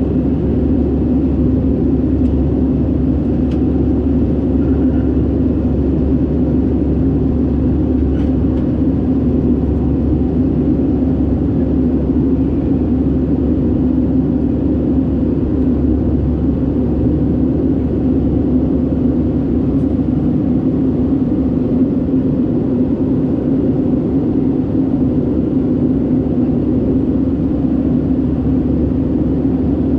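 Steady engine and cabin drone inside an Airbus A319-112 with CFM56 turbofans, a constant low hum that does not change in level.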